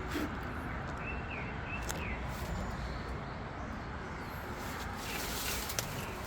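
Footsteps and rustling through overgrown grass and brush, with a few short bird chirps in the background and a low steady outdoor rumble.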